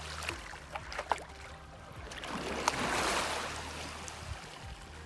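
Small waves washing on a rocky lake shore, one wash swelling up and fading about two and a half seconds in, with a few sharp clicks scattered through.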